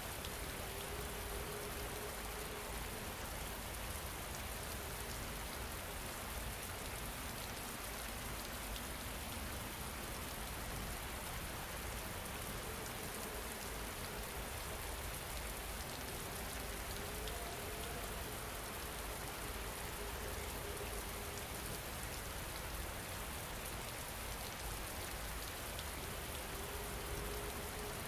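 Steady, even rain falling on a surface, with faint held tones from a soft background soundtrack drifting in and out.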